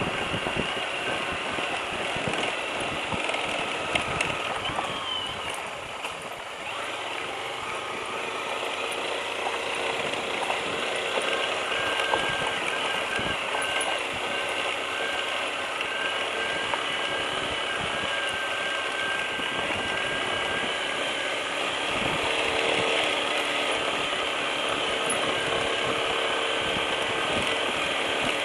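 Lifan KPT200's single-cylinder engine running steadily, with a busy mechanical rattle and clicking over it.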